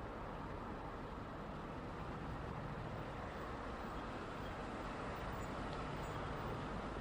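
Steady road traffic noise: the even hum and tyre rush of passing vehicles, swelling slightly in the middle.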